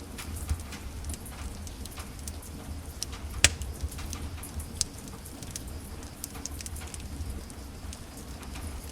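Wood fire in a fireplace crackling: irregular sharp pops and snaps over a steady low rumble, the loudest crack about three and a half seconds in.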